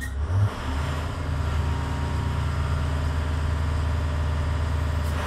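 Diesel engine of a 2010 IC CE school bus revved up about a second in and held at raised speed, running steadily before it drops back at the end.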